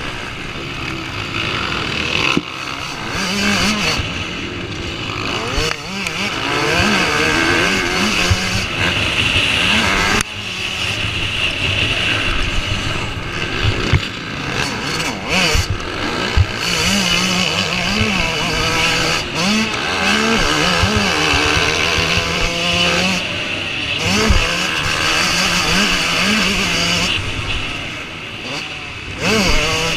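Several motocross bikes racing, their engines revving up and dropping back again and again as riders accelerate and shift.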